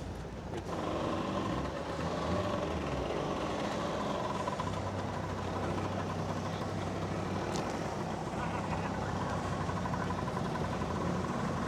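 A motor vehicle's engine running steadily, a low hum with a held higher tone over it, with faint voices in the background.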